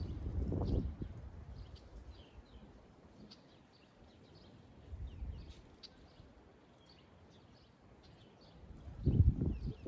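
Small birds chirping, with many short high calls scattered throughout. Bursts of low rumbling noise come in the first second and again near the end, and they are louder than the birds.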